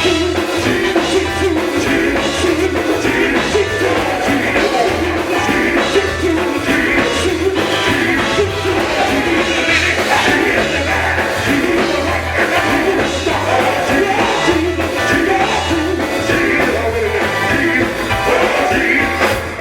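Live gospel band music with singing over a steadily pulsing bass line.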